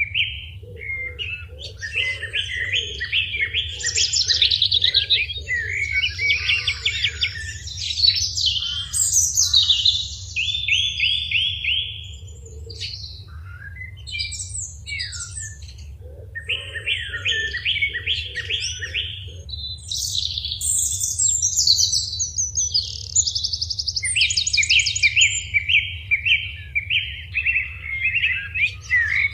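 Small songbirds chirping and singing in varied phrases, many of them quick runs of repeated notes, with a short lull about midway. A faint steady low hum runs underneath.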